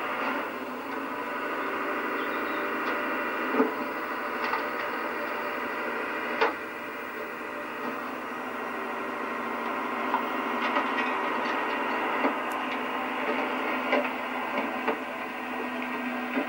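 Refuse lorry's rear compactor running steadily as its back plate comes down and squashes rubbish into the body, with sharp cracks and crunches from the rubbish every few seconds.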